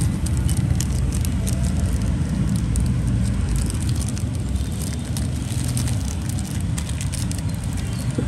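Steady low rumble of background noise, like road traffic, with scattered light clicks and taps.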